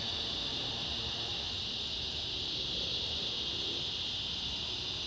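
Evening chorus of many cicadas, a steady high-pitched drone that holds at an even level without a break.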